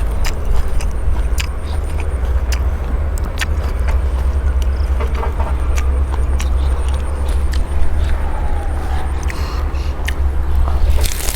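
A steady deep low rumble, dropping away about eleven seconds in, with scattered light clicks and knocks over it.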